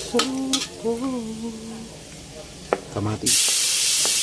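A metal spoon scraping and stirring garlic and dried anchovies frying gently in oil in a wok. About three seconds in, a sudden loud sizzle starts and holds as chopped tomatoes are tipped into the hot oil.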